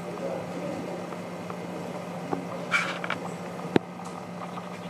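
Freight train running by: a steady hum and rumble, with a short hiss nearly three seconds in and a single sharp click just after.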